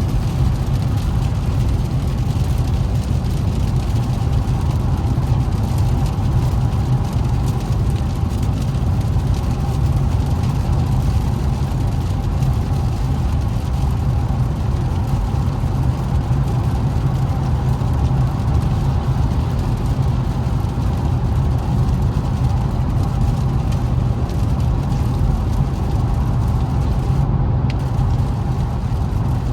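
Steady cabin noise of an Infiniti Q50s driving on wet roads: an even low rumble of engine and tyres with a hiss over it, and no sharp changes.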